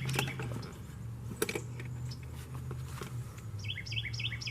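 A small bird chirping outdoors in a quick run of short high notes near the end, over a steady low hum, with a couple of sharp clicks earlier.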